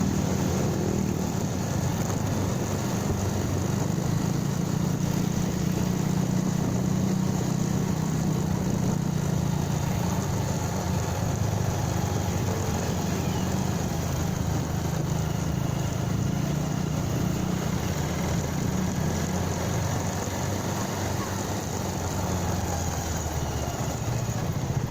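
Motorcycle engine running steadily while riding, with a constant rush of noise over it.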